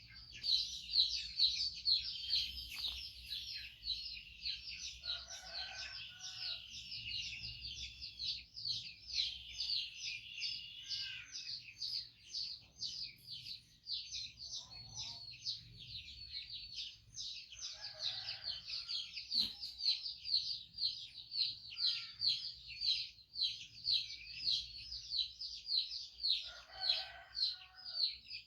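Birds chirping quickly and without a break, several high chirps a second, with a few short lower calls now and then.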